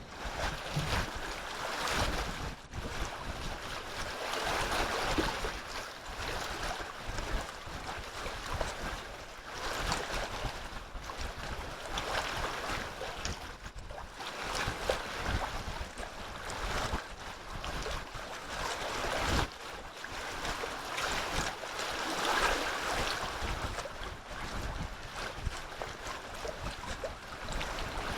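Wind gusting over the microphone: a rushing noise that swells and fades every few seconds, with low buffeting thumps on the mic.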